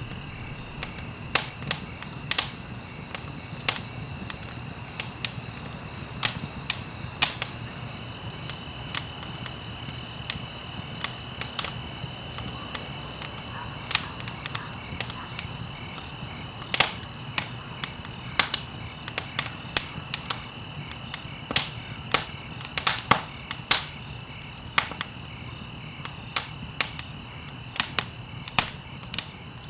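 Wood fire crackling in a fireplace: irregular sharp pops and snaps, several a second at times, over a low steady rumble of the flames.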